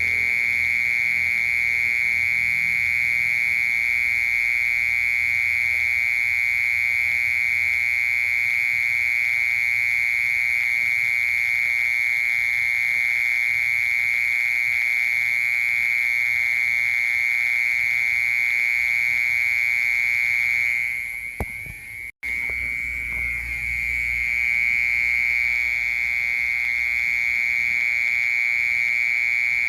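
Mole cricket singing: one steady, unbroken high-pitched trill that fades out briefly about two-thirds of the way through, then starts again.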